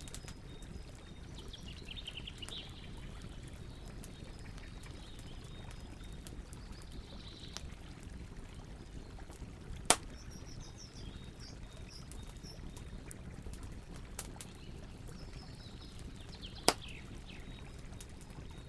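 Campfire crackling with scattered small pops and two sharp, louder pops, about ten seconds in and near the end, over the steady rush of river water. Birds call several times.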